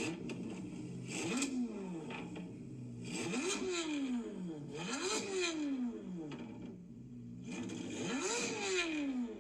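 Chevrolet C8 Corvette Z06's flat-plane-crank V8 being revved four times, each rev climbing quickly and then falling away more slowly back toward idle. The first rev, about a second in, is smaller than the other three.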